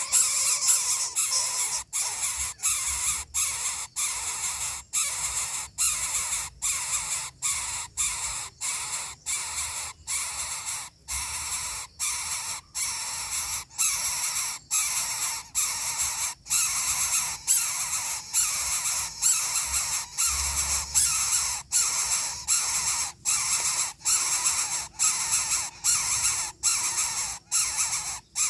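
Harsh, rasping begging calls of coucal nestlings, repeated evenly about one and a half times a second.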